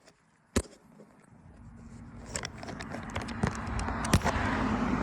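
A KTM motorcycle engine drone building up and growing steadily louder, after a single sharp click about half a second in, with a few knocks or clicks over it.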